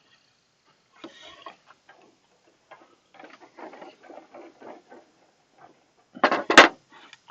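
Cut wooden boards knocking and clacking as the birdhouse pieces are handled and set against one another: light taps and clicks at first, then a loud quick pair of wood-on-wood knocks near the end.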